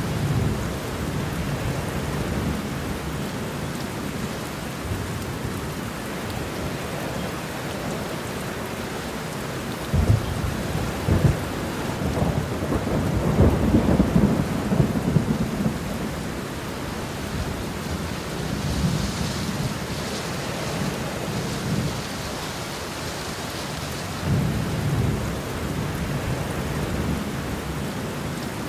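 Steady rain with rolling thunder. Two sharp cracks of thunder come about ten and eleven seconds in, followed by a long loud rumble, and softer rumbles return later.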